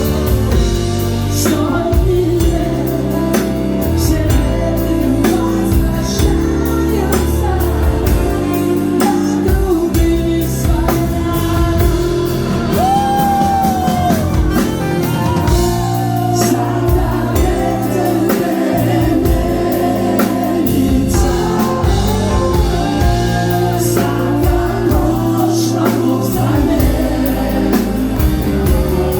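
A woman singing live with band accompaniment, drums and bass under her voice, which holds and glides between notes.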